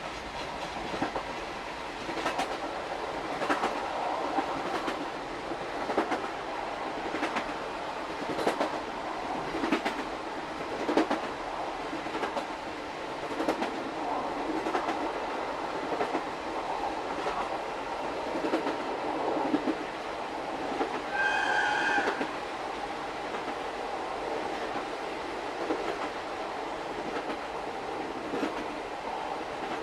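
Old-type Suhafu 42 passenger coach running over rail joints, a steady rhythmic clickety-clack heard from the coach's end vestibule, with little motor sound from the EF58 electric locomotive on the downhill grade. About two-thirds of the way through, the EF58's whistle sounds once, briefly.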